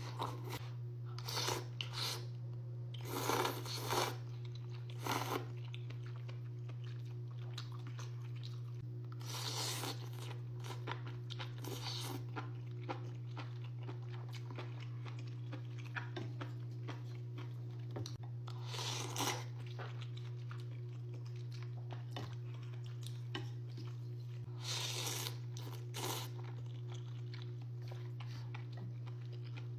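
Close-miked eating: a person biting into and chewing crunchy food, with loud crunches coming in clusters every few seconds and softer chewing between, over a steady low electrical hum.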